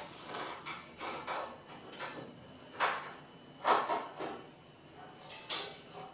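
Casing panels of a Pierro Silver espresso machine being handled and taken off: a few scattered sharp clacks and knocks, the loudest about three and a half and five and a half seconds in.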